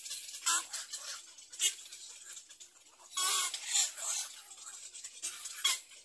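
Birds calling in short, scratchy bursts at irregular intervals, the longest and loudest about three seconds in.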